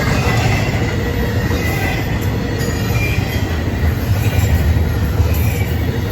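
Norfolk Southern freight train rolling past, a steady loud rumble of railcars on the track. A faint high wheel squeal comes and goes over it.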